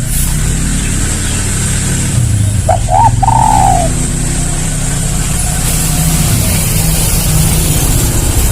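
Spotted dove giving one coo: two short notes, then a long falling note, about three seconds in. Under it runs a steady low rumble.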